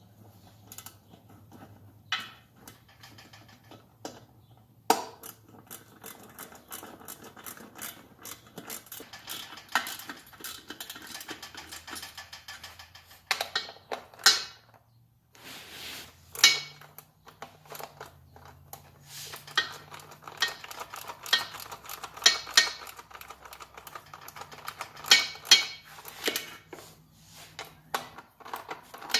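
Hand ratchet wrench clicking in quick runs with occasional knocks as new bolts on a Thetford RV toilet are tightened down.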